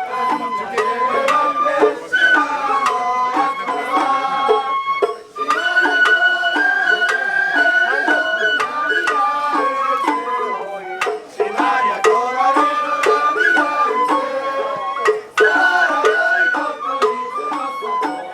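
Sawara bayashi festival music: a shinobue bamboo flute plays a stepping melody over taiko drum strikes, with short breaks between phrases.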